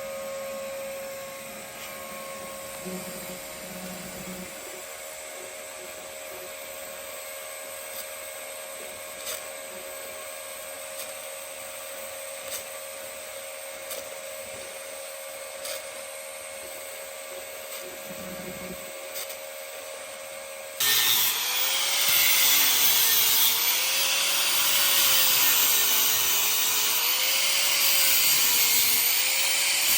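Steady hum of a TIG welding arc on steel pipe, with faint regular ticks. About two-thirds of the way through, an angle grinder starts suddenly and grinds much louder, its pitch dipping and rising in waves as it is pressed into the metal.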